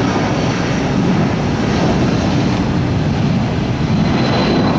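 Boeing 757 jet engines at takeoff power, a loud, steady rumble as the airliner takes off.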